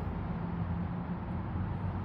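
Steady low background rumble with a faint steady hum running under it; no ratchet clicks or tool strikes stand out.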